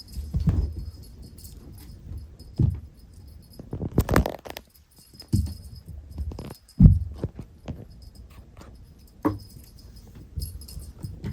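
Scattered soft thumps and knocks, about six of them at irregular gaps and the loudest about seven seconds in, over a faint jingling that comes and goes.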